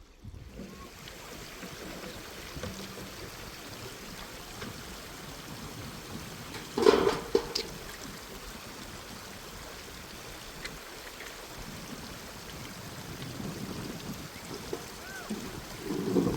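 Water running steadily in a stream, with one brief louder burst about seven seconds in.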